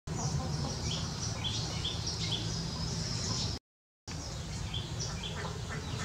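Small birds chirping, a run of short high notes and quick falling calls over a steady low hum. The sound cuts out for about half a second a little past halfway.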